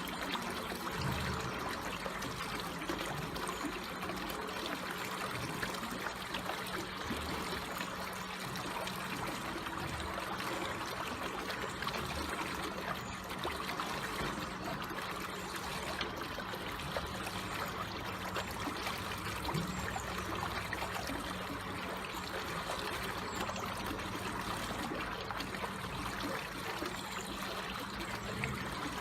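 Water flowing slowly, a steady trickling with fine bubbling.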